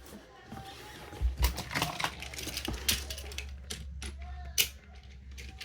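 Sharp plastic clicks and clacks of toy trains being handled and set on their track, a dozen or so knocks in the middle seconds, over a low steady hum.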